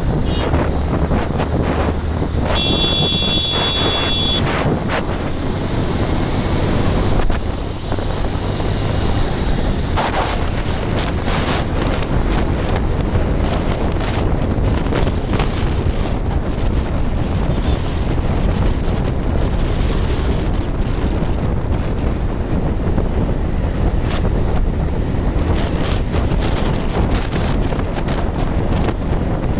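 Wind buffeting the microphone on a moving motorcycle, over steady engine and road noise. A vehicle horn sounds for about two seconds, starting a little over two seconds in.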